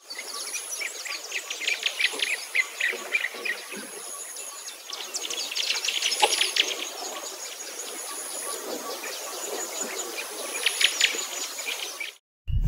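Finches chirping in rapid clusters of short, high chirps, with a thin, high, steady tone coming and going in the background. The sound cuts off abruptly just before the end.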